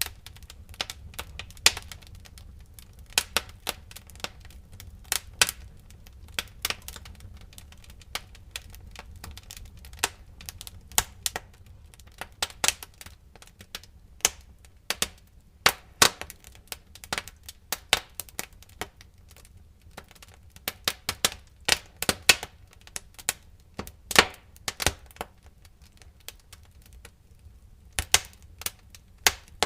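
Wood fire crackling in a fireplace: irregular sharp pops and snaps, some in quick clusters, over a low steady rumble of the flames.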